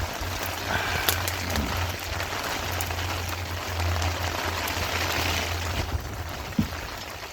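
Steady rain falling, an even hiss with a few sharp ticks, fading away near the end.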